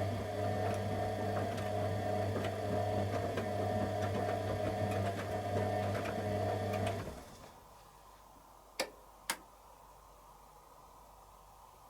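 Candy Aquamatic 100F washing machine's drum motor running steadily as it tumbles the wash during the heating stage, then stopping about seven seconds in. Two sharp clicks follow, about half a second apart.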